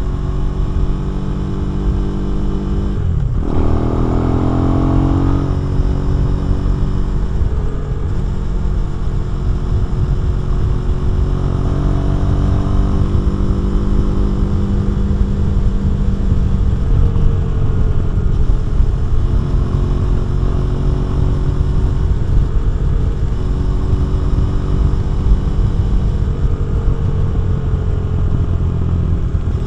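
KTM 390 Duke's single-cylinder engine running under way through a Remus exhaust. About three seconds in the note briefly drops out, as in a gear change, then the revs rise for a couple of seconds before settling into a steady cruise with small changes in pitch.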